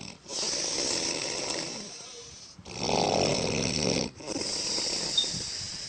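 A woman snoring: three long snoring breaths one after another, each roughly one and a half to two seconds, with short breaks between them.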